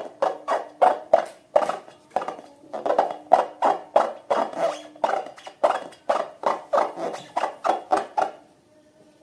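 Slime being squished and worked by hand, a run of wet squelches about three a second that stops about eight seconds in.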